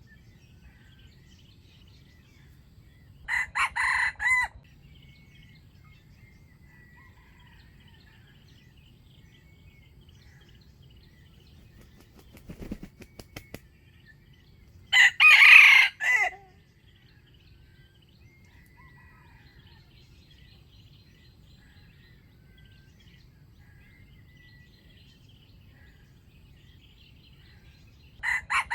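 Wild junglefowl rooster crowing three times in short, clipped crows, the middle one the loudest. Faint small-bird chirping in between, and a few soft taps just before the second crow.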